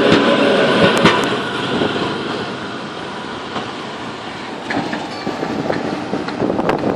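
Historic tram passing, its steel wheels running on the rails, loudest at the start and fading over the first few seconds, with a sharp click about a second in. The noise swells again near the end with a quick run of clicks.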